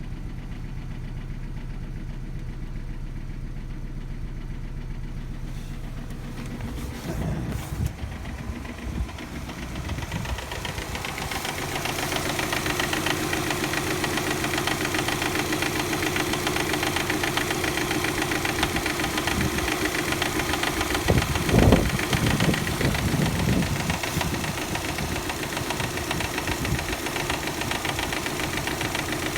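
Subaru EJ257 turbocharged flat-four idling on a cold start with a light clacking: the timing belt slapping because of a defective hydraulic timing belt tensioner. The engine sound grows louder a little under halfway in, with one brief louder thump past the middle.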